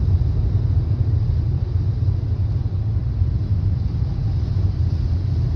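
Steady low rumble of road traffic, even and unbroken.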